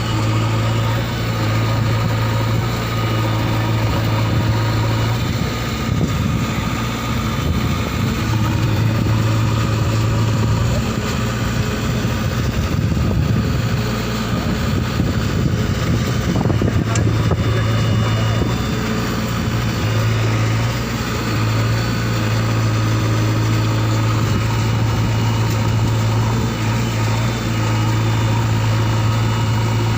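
Heavy diesel engines of JCB backhoe loaders and a tractor running steadily, the engine note wavering a little in the middle as the revs shift.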